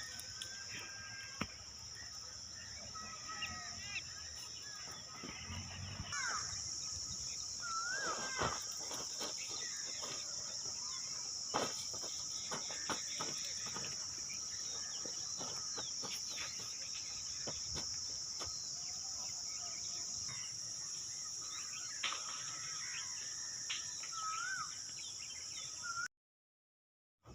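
Steady high-pitched drone of rainforest insects, stepping louder about six seconds in and easing about twenty seconds in, with short whistled bird calls and scattered light ticks and taps over it. The sound cuts out to silence near the end.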